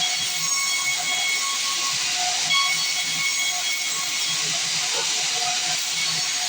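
Sawmill band saw cutting through a log, a steady hissing whir with no pause.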